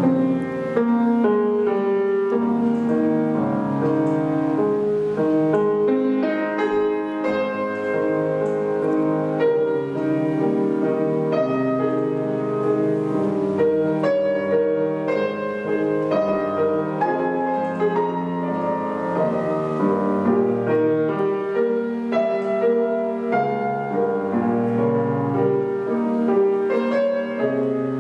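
Solo piano playing a classical piece, a steady flow of overlapping notes with sustained tones and a melody over accompaniment.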